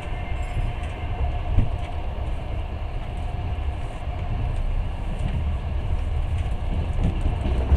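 Passenger train running along the line: a steady rumble of wheels on rails, heard from inside the carriage.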